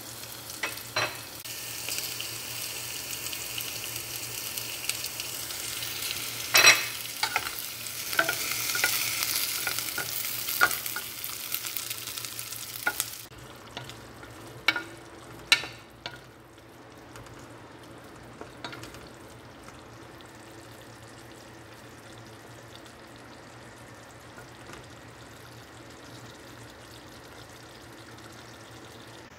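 Whole fish frying in hot oil, sizzling, with a wooden spatula scraping and knocking against the pan. About thirteen seconds in, the sizzle drops off sharply, leaving a fainter steady hiss with a few more spatula knocks.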